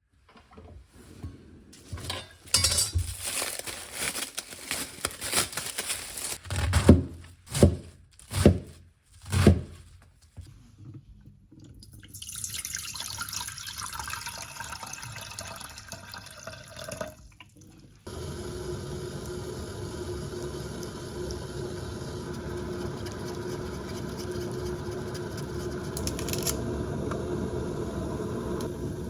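Kitchen work sounds: a run of knocks and clatter with three heavy thumps, then water running from a tap, its pitch shifting as the vessel fills. After a sudden change, a steady rushing noise with a low hum.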